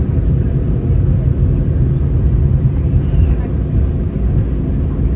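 Steady low rumble inside the passenger cabin of an Airbus A319 with CFM56 engines, with no distinct knocks or changes.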